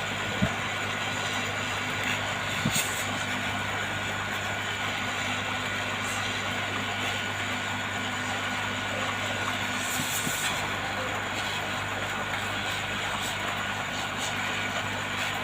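Hot air rework gun blowing steadily, heating the phone's glass to soften the adhesive so the display can be lifted off, with a steady hum and a few light clicks.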